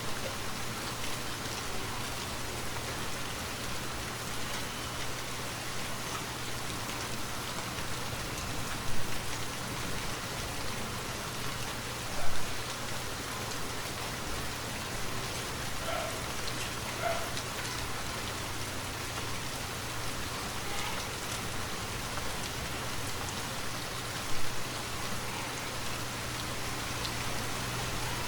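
Steady rainfall hissing evenly, with three short, louder knocks about nine, twelve and twenty-four seconds in.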